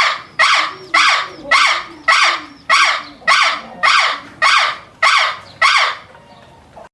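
An animal's loud, harsh call repeated about eleven times in an even series, roughly two calls a second, stopping shortly before the end.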